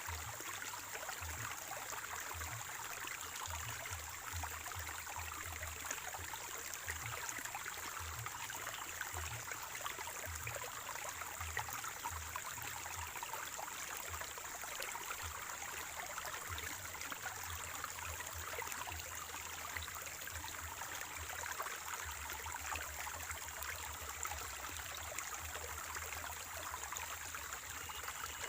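Water of a small spring-fed stream flowing and trickling steadily, an even splashing hiss without pause.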